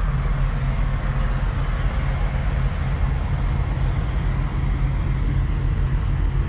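An engine running steadily, with a continuous low rumble and no change in pitch or level.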